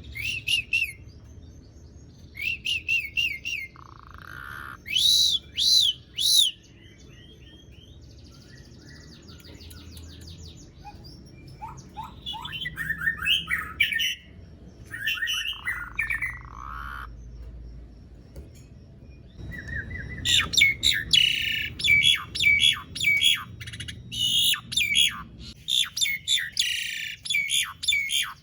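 Asian pied starling (jalak suren) singing in bursts of loud whistles, squawks and chirps. After a quieter spell about a third of the way in, it breaks into a long run of fast chattering song.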